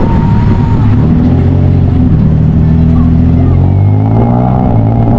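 Motor vehicle engine running loud and close, its pitch stepping to a new level about four seconds in.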